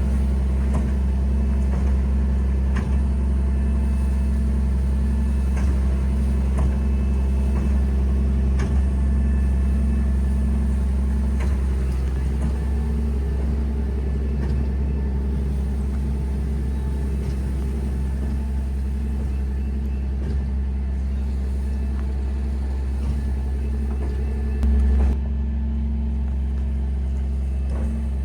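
Diesel truck engine running steadily at a constant low hum, powering the walking-floor trailer as it unloads pine mulch. A brief louder bump about 25 seconds in.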